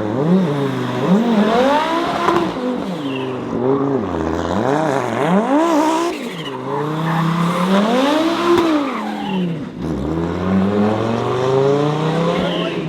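Rally car engine at full revs and lifting repeatedly, its pitch climbing and dropping over and over.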